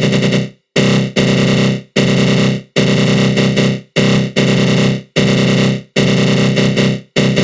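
Synthesized 'attack growl' sound effect: a dense, buzzing synth tone from the GMS synthesizer run through a flanger. It plays in loud bursts of about a second, each fading and cutting out briefly before the next begins abruptly.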